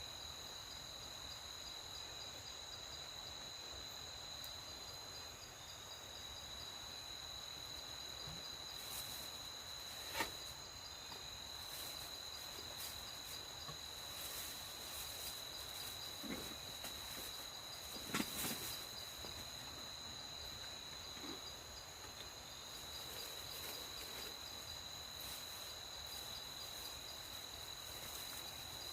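Night-time forest ambience of crickets or similar insects trilling steadily at a high pitch. A few sharp clicks or cracks break through, the loudest about ten and eighteen seconds in.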